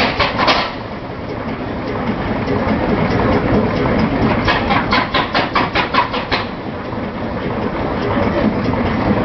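Large vintage engine running with a steady low rumble, broken by stretches of rapid, even clattering beats, about six a second, near the start and again around the middle.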